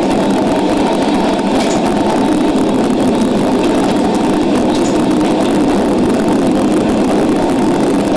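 Steady, unchanging running noise of a train in motion.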